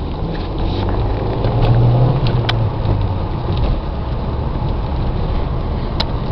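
Renaultsport Mégane 225's turbocharged 2.0-litre four-cylinder engine running under way. Its note rises for about a second, about two seconds in, then drops back, with a few sharp clicks along the way.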